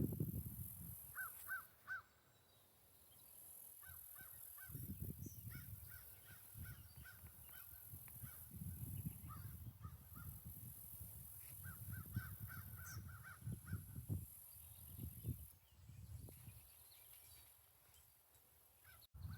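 Geese honking in short series of quick calls, repeated several times, with gusts of wind rumbling on the microphone.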